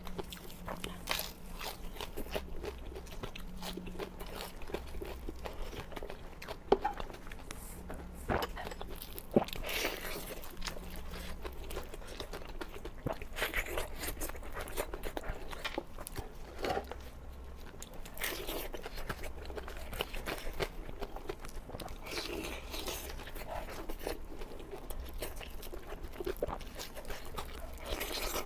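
Close-miked crunchy biting and chewing of crispy food: irregular crackling crunches with a few sharp snaps, the loudest about 7 and 9 seconds in.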